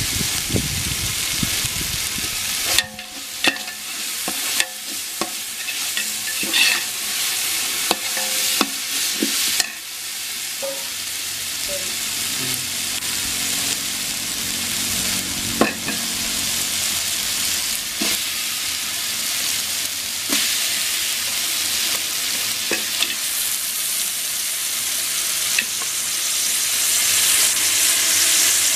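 Onion, tomato and green chilli masala frying in oil in a large aluminium pot, sizzling steadily, while a metal slotted spoon scrapes and knocks against the pot as it is stirred.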